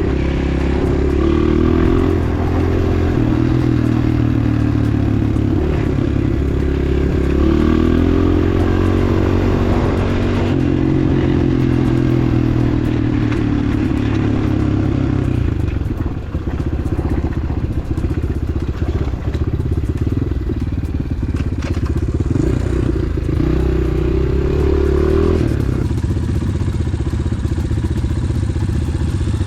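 Pit bike's single-cylinder engine under way on a rough forest trail, the revs rising and falling as the rider works the throttle, with the bike rattling and clattering over the bumps.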